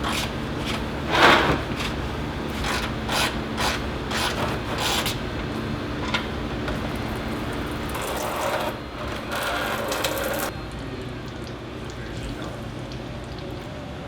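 Hand-tool work under a car during an oil pan gasket job: a run of clicks, knocks and scraping, like a ratchet and tools on metal, over a steady low hum. The tool noise stops about ten seconds in, leaving the hum.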